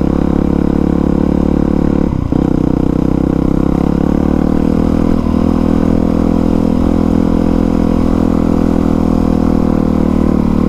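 2020 Honda CRF450R's single-cylinder four-stroke engine running at a steady, near-constant speed while being ridden, with a brief dip about two seconds in.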